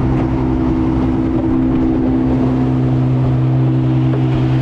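Car engine idling steadily, a constant low hum that holds one pitch.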